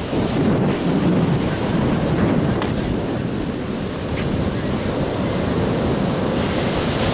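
Surf washing on a beach, with wind buffeting the microphone.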